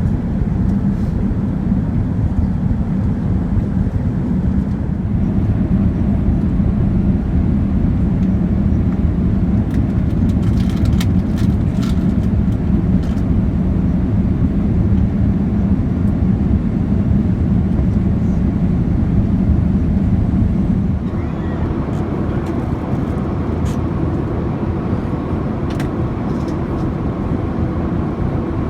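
Steady rumble of an airliner cabin in flight, from the Boeing 787's engines and the air rushing past the fuselage. About two-thirds of the way through it becomes slightly quieter, with a faint hum added.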